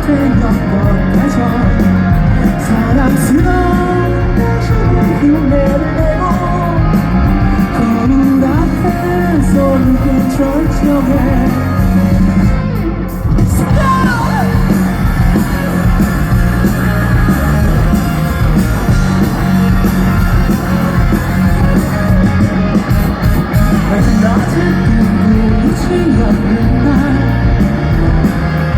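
Live rock band playing loudly, with electric guitars, bass and drums under a singer's voice that at times turns to shouting; the music thins out for a moment about thirteen seconds in, then comes back in full.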